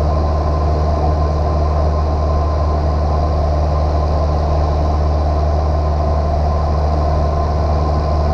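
Piston engine and propeller of a single-engine light airplane running steadily in flight, an even low drone with no change in power.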